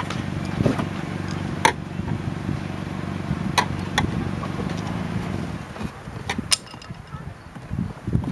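Sharp snaps of plastic door-panel retaining clips being pried loose, several separate clicks, over a steady low mechanical hum that fades out about two-thirds of the way through.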